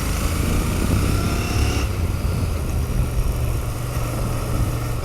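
Royal Enfield Continental GT650's 650 parallel-twin engine running as the motorcycle is ridden, heard from the bike itself.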